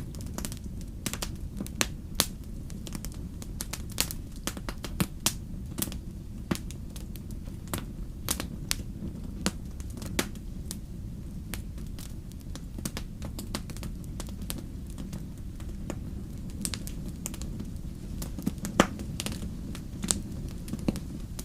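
Wood fire in a fireplace crackling, with irregular sharp pops and snaps, several a second at times, over a steady low rumble.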